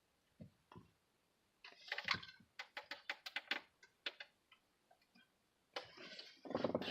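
A quick run of light, sharp clicks and ticks, about four a second, from about two to four seconds in, with a few soft knocks before them.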